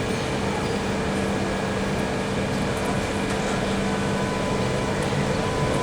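B2-class tram standing at a stop with a steady hum, several constant tones over a noisy background.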